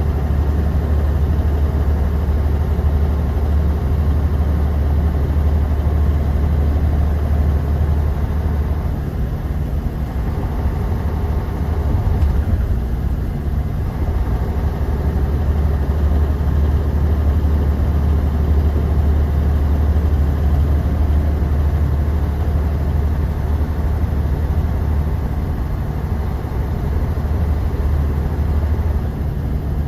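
Inside a moving bus: a steady low engine drone with road and tyre noise. The low hum eases for a few seconds near the middle, then comes back.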